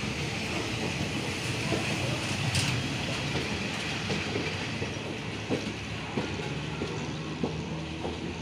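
Train rolling along the track, a steady rumble with the click of wheels over rail joints, a few sharper clacks in the second half.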